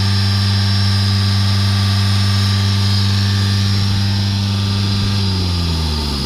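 Mercedes C-Class 1.6 diesel engine held at a steady fast idle of about 3000 rpm for an exhaust back-pressure test, with a high whine riding above the engine note. About five seconds in, the revs are let go and the pitch falls back toward idle.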